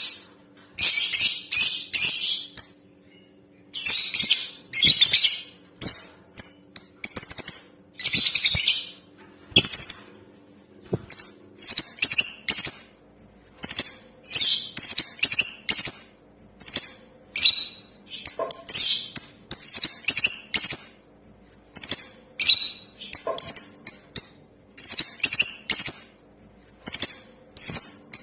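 Female lovebird calling in repeated bursts of shrill, rapid chattering, each burst half a second to a second long with short pauses between. This is the sound used as a lure to get male lovebirds singing.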